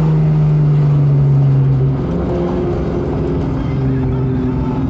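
Modified Ford Mustang's engine and exhaust running at a steady drone; the note drops and quietens about two seconds in and stays lower.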